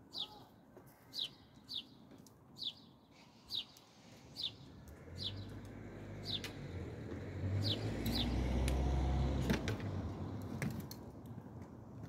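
A small bird chirping over and over, short high falling chirps about once or twice a second, stopping about eight seconds in. Meanwhile a vehicle passes, a low rumble that swells to the loudest sound around the eight- to nine-second mark and fades soon after.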